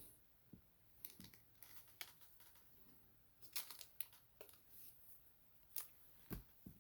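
Faint, scattered rustles and light clicks of plastic penny sleeves and top loaders as trading cards are sleeved by hand.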